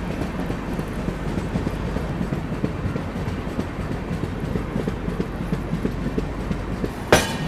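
Passenger train running on the track, heard from aboard: a steady rumble with a continuous light rattle. Near the end come a few loud, sharp clacks, as when the wheels cross rail joints or points.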